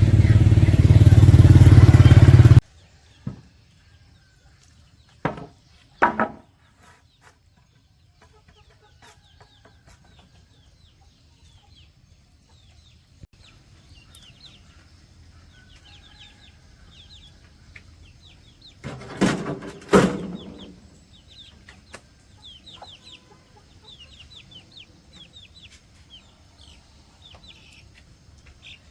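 A motorcycle engine running loudly, cut off abruptly about two and a half seconds in. Then chickens clucking, with a few louder calls and many short high chirps.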